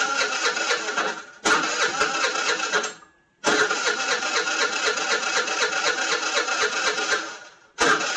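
Scooter's electric starter cranking the engine in repeated attempts with short pauses between them, the longest lasting about four seconds; the engine turns over with an even chugging rhythm but never catches, a stubborn cold first start of the year.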